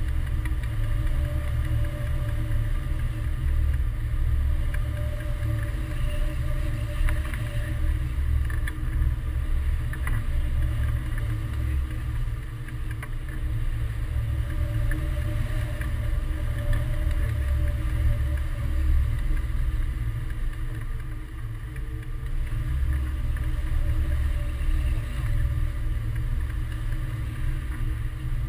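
Wind buffeting the microphone of a hang glider in flight: a steady low rumble of rushing air.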